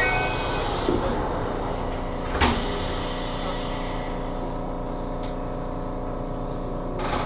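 Aonami Line train's sliding passenger doors shutting with a sharp thump about two and a half seconds in, over the steady hum of the standing electric train. A short hiss near the end.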